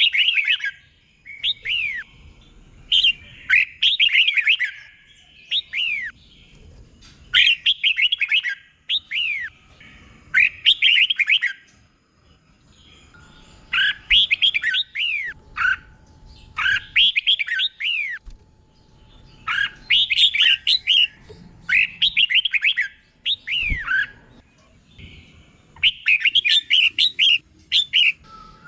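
Red-whiskered bulbul singing: short phrases of bright, falling whistled notes, repeated every second or two with brief pauses between bursts.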